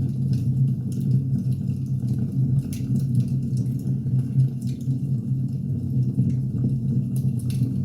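Firewood burning and crackling: irregular sharp pops and snaps over a steady low rumble.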